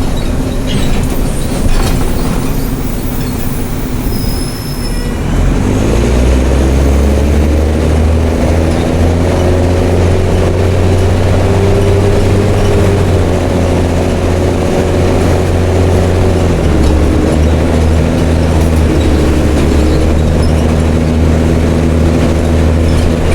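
Mercedes-Benz OM366LA turbo-diesel straight-six in a city bus, running through an open exhaust. About five seconds in the engine note climbs as the bus pulls under load, then holds a strong steady drone; near the end it drops briefly and picks up again.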